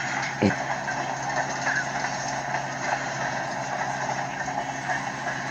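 Freight train cars rolling past with a steady rumble and rail noise, under a steady low hum.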